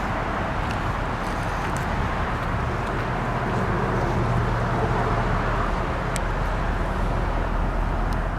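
2001 BMW 740i's 4.4-litre V8 idling steadily with a low hum, heard outdoors with a background wash of traffic-like noise.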